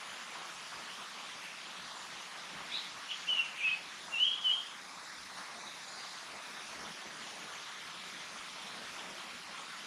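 Japanese paradise flycatcher calling: a short run of quick high notes about three seconds in, lasting about two seconds, over a steady background hiss.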